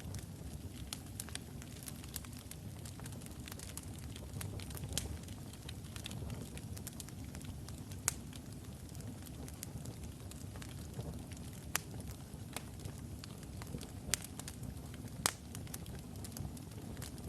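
Wood logs burning in a fireplace: a steady low rumble of flames with scattered sharp crackles and pops, the loudest pops about 8, 12 and 15 seconds in.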